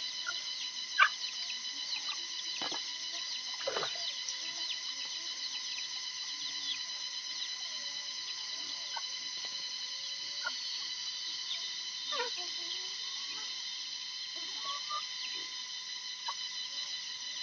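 Evening chorus of crickets and other insects, a steady shrill trilling in several high pitches layered together. A sharp knock about a second in and a few fainter clicks later.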